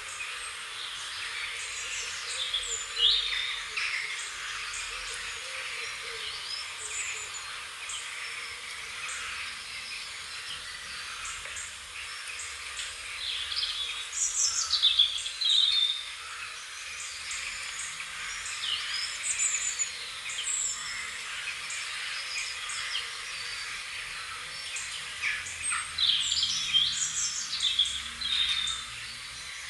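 Birdsong: several birds chirping and singing in short sweeping phrases over a steady high hiss, with louder bursts of calls about three seconds in, around the middle and near the end.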